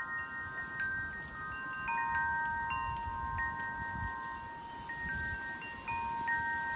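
Metal wind chimes ringing in the wind, their tubes struck at irregular moments so that several held, overlapping tones keep sounding, with low wind rumble beneath.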